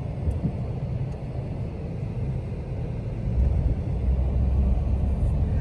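Steady low rumble of a car's tyres and drivetrain heard from inside the cabin while driving on a snow-covered road, getting louder a little past halfway.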